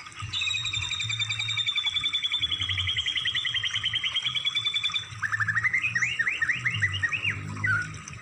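Recorded songbird song: a fast, even trill of repeated high notes lasting about five seconds, then a string of about eight quick rising notes. A low hum runs underneath.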